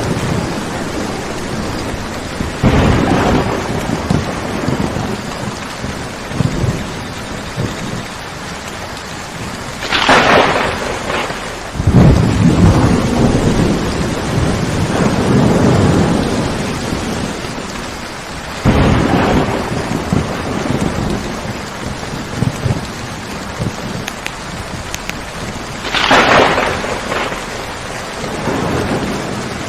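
Steady rain with thunder: several sudden sharp cracks, about 3, 10, 19 and 26 seconds in, and a long low rumble from about 12 to 17 seconds.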